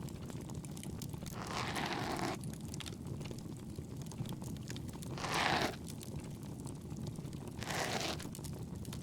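Ear-cleaning ASMR sound: an ear pick scraping and rubbing close to the ear in three scratchy strokes, the middle one loudest, over the steady low crackle of a bonfire.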